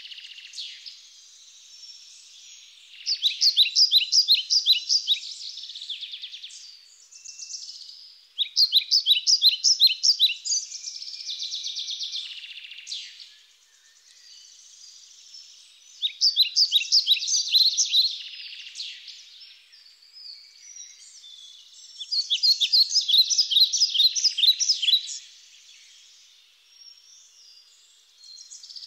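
Birdsong: a songbird sings four loud phrases of rapid, evenly repeated notes, each two to three seconds long and about six seconds apart, with softer chirping in between.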